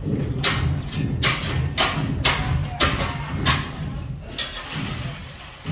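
Delivery truck's engine idling steadily, with a series of short, sharp noises over it, about one every half second.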